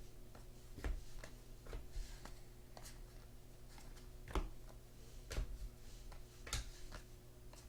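Trading cards being handled and sorted: soft, irregular clicks and taps of cards and packaging, over a faint steady hum.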